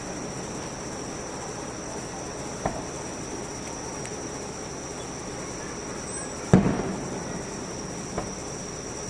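Fireworks going off: one loud shell burst about two-thirds of the way through, its boom rolling away over half a second, with two fainter sharp bangs, one about a third of the way in and one near the end. A steady high thin whine runs underneath throughout.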